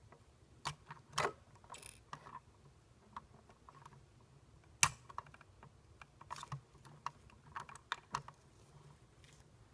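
Irregular small plastic clicks and taps from a toy model garbage truck being handled, with one sharper knock about five seconds in.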